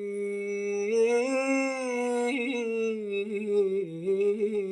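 A man singing a long held note in Iraqi mawwal style, drawing out a word with melismatic turns. The pitch rises about a second in, wavers, and dips briefly near the end.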